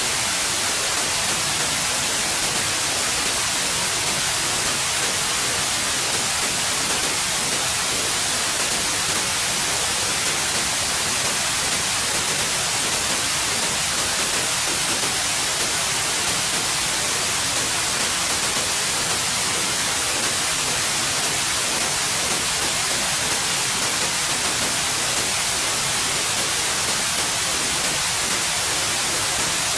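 Steady electronic white noise: an even, unchanging hiss, brightest in the high frequencies.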